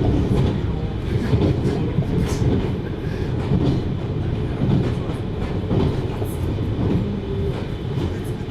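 733 series electric multiple unit under way: a steady low rumble of wheels on rail, with faint scattered clicks.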